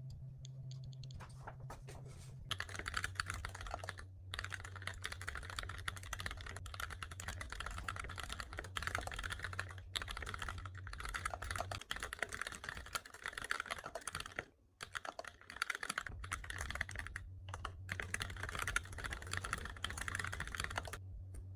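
Fast, continuous typing on a computer keyboard, a dense run of irregular key clicks. It starts a couple of seconds in and pauses briefly about two-thirds of the way through, over a low steady hum.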